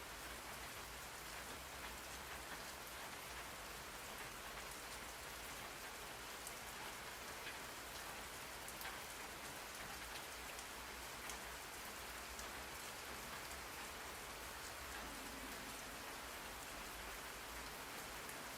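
Steady rain: an even hiss of falling rain with scattered sharper drop ticks.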